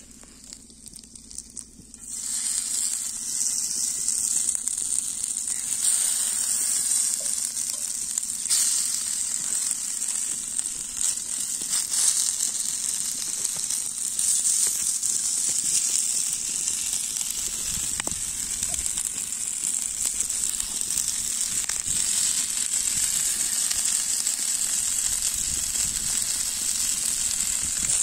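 Chicken tikka skewers sizzling in hot oil on a flat iron griddle, a steady hiss that starts suddenly about two seconds in as the first skewers go down and carries on as more are laid beside them.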